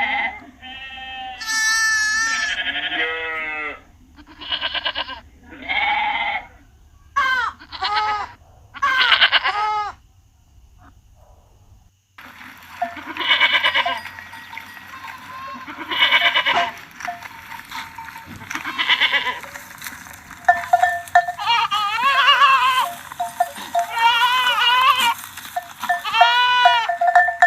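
Goats bleating over and over: a string of separate wavering calls, a short lull about ten seconds in, then several goats calling in quick succession over a busier background.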